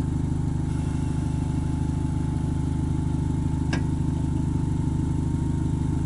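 Volkswagen Golf GTI's turbocharged four-cylinder engine idling steadily, with a thin steady whine over it and one sharp click a little past halfway.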